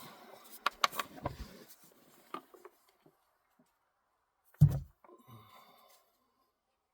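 Handling noises from work at the oil drain: a few sharp clicks in the first second and a half, then one loud thump about four and a half seconds in.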